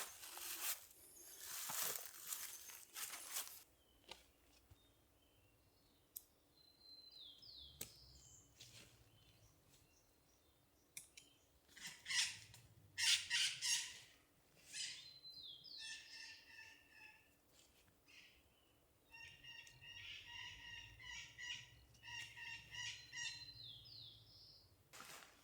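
Wild birds calling: a short whistled call three times, spaced several seconds apart, and rapid runs of chirps around the middle and again near the end. Brief bursts of rustling noise near the start and about halfway are the loudest sounds.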